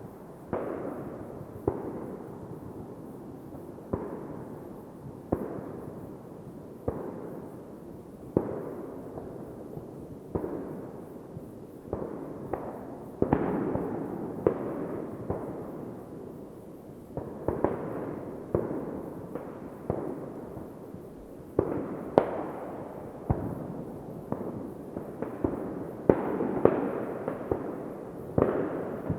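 Fireworks going off, a string of sharp bangs about once every second or so. Each bang trails into a rolling echo that fills the gaps between them.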